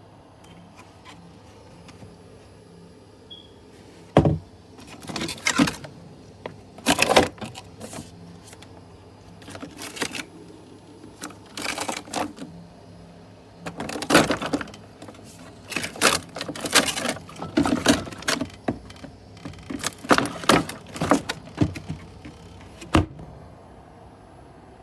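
Irregular knocks, clicks and rattles of a plastic portable compressor car fridge being handled, coming in clusters from about four seconds in. A faint steady low hum lies under them.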